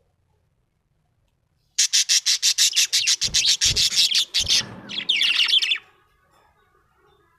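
Small parrot chirping: a rapid run of sharp, high chirps at about eight a second starting about two seconds in, then a shorter warbling trill.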